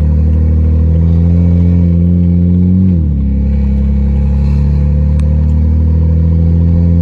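BMW 335i's N54 twin-turbo straight-six, fitted with upgraded turbos and open downpipes, pulling under acceleration, heard from inside the cabin. The exhaust note climbs, drops sharply at an automatic upshift about three seconds in, holds fairly steady, then drops again at a second shift near the end.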